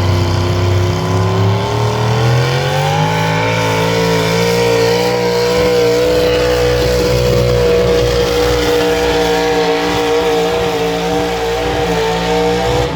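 Pulling truck's engine at full throttle hauling the sled down the track: the revs climb over the first few seconds, then hold high and steady, and the engine cuts off suddenly at the very end as the pull finishes.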